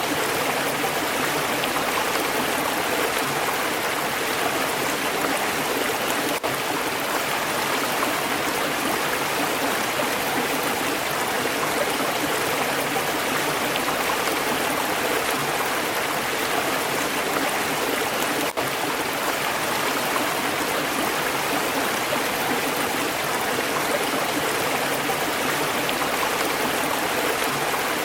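Stream water flowing steadily, an even, unbroken wash of water sound, with two very brief dips, about six seconds in and about eighteen seconds in.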